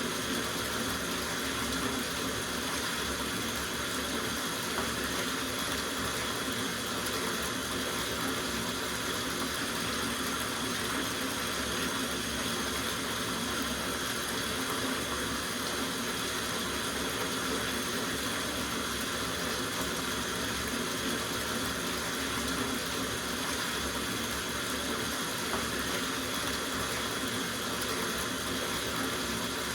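Water running steadily from a tap into a soaking bathtub, a constant even rush of splashing water.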